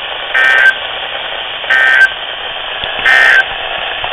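NOAA Weather Radio Emergency Alert System end-of-message signal: three short bursts of SAME data warble about 1.3 s apart, over steady radio hiss. They mark the end of the flood warning broadcast.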